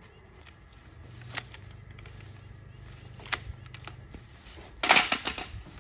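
Cut tree branches being handled and loaded onto a truck: a couple of sharp knocks, then a loud rustling crash of brush about five seconds in, over a low steady hum.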